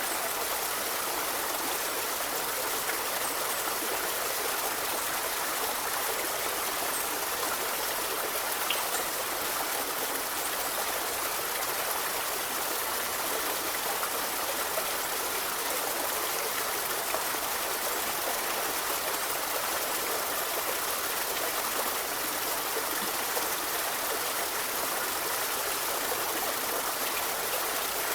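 A river or forest stream flowing steadily, a continuous rushing and babbling of water.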